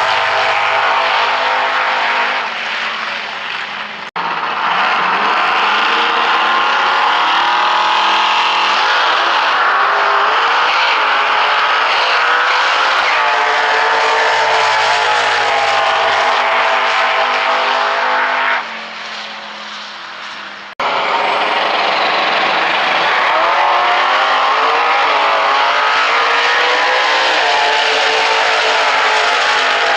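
V8 Valiant coupe drag car's engine running loud, its pitch rising and falling repeatedly as it revs. The sound cuts off abruptly twice, about four seconds in and about two-thirds of the way through, each time after a quieter stretch.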